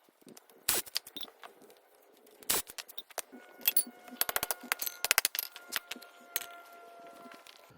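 Sharp metallic clicks and clinks of tools and small metal parts being handled during scrap teardown, bunched together in the middle, with a faint metallic ring lingering through the second half.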